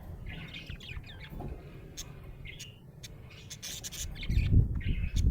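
Budgerigar chirping and chattering in short phrases, with a few sharp clicks. A low rumble builds near the end.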